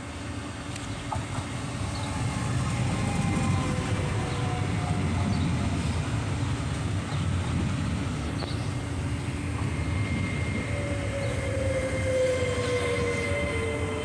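Train running along the rails with a steady low rumble that grows louder over the first few seconds. Thin whining tones slowly fall in pitch through it, most clearly near the end.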